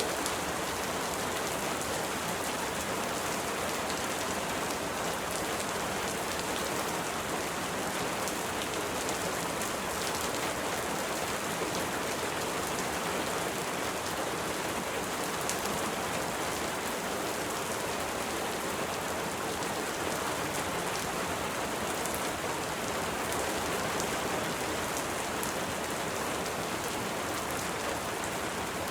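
Steady rain falling: an even hiss with fine scattered drop ticks.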